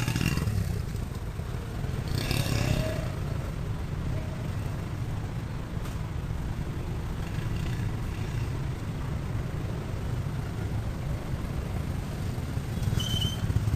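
Honda 70cc single-cylinder four-stroke motorcycle engine running steadily.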